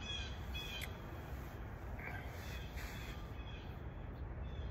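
Outdoor ambience: a steady low background rumble with a few short bird calls, mostly near the start and once around two seconds in.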